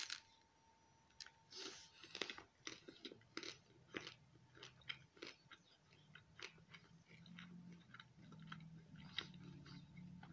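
A crunchy bite into a taco right at the start, then close chewing with many small crunching clicks.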